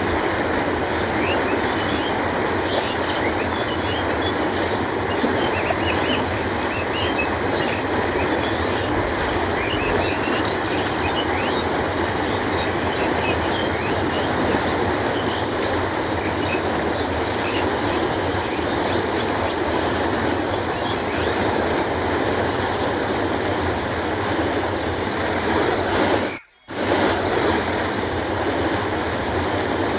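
Steady rushing of water flowing along a canal, an even unbroken noise, with a split-second dropout about 26 seconds in.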